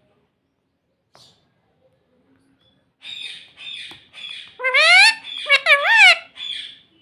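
Pet rose-ringed parakeet calling: after a quiet start, a run of short raspy chatter begins about three seconds in, then two loud shrieks, one sweeping upward and one wavering up and down, and a little more chatter near the end.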